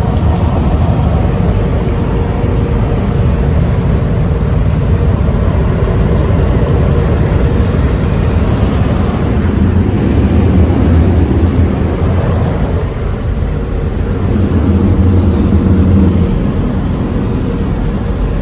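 Automatic car wash heard from inside the car: water spraying over the car and the wash machinery running, a loud steady rumble with a low hum that swells twice in the second half.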